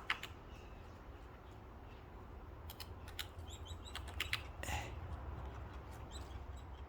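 Faint short bird chirps, with a few scattered sharp clicks and taps.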